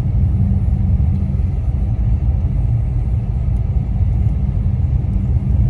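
Steady low rumble of tyre and road noise heard inside a car's cabin while driving on a snow-covered highway.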